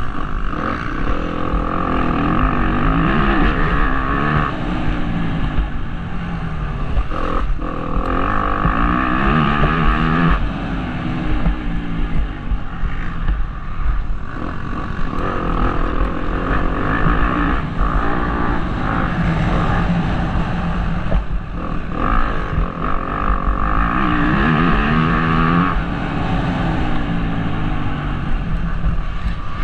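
Motocross bike engine being ridden hard, heard from a helmet-mounted camera: the revs climb and fall again and again through the gears, with a few sudden brief cuts in the throttle.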